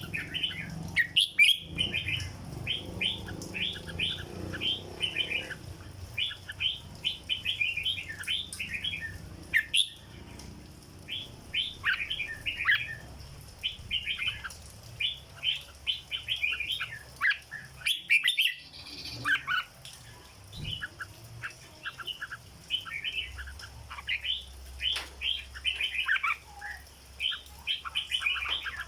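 Red-whiskered bulbul singing phrase after phrase of quick, short whistled notes, with brief pauses between phrases.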